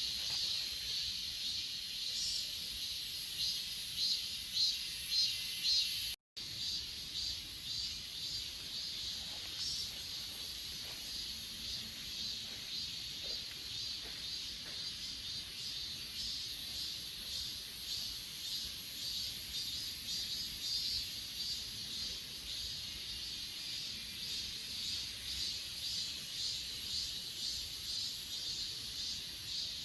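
Chorus of crickets and other grass insects chirping in quick, steady repeated pulses, high in pitch. The sound cuts out for an instant about six seconds in.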